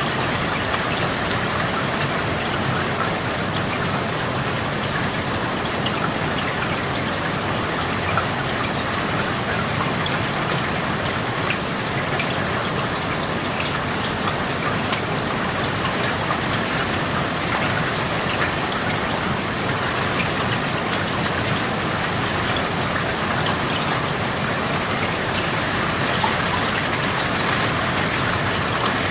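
Steady rain falling, with many small drops ticking on nearby surfaces, heard through an open window.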